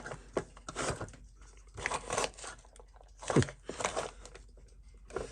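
Handling noise on a workbench: scattered small clicks and rustles as tools and parts are picked up and set down, with one louder knock about three and a half seconds in.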